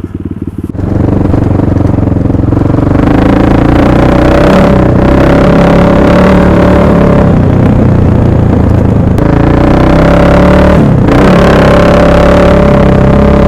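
1998 Husaberg FC600 single-cylinder four-stroke motorcycle engine pulling hard under throttle, getting suddenly louder under a second in, with two brief drops in revs about 5 and 11 seconds in.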